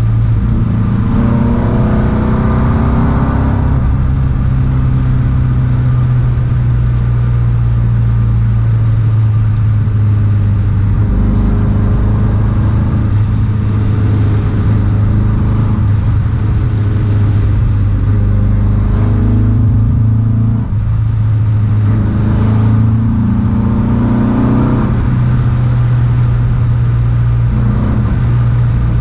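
Ford Escort Mk1's four-cylinder engine driving under way, heard from inside the cabin over a steady low drone. Its pitch rises several times as the car accelerates.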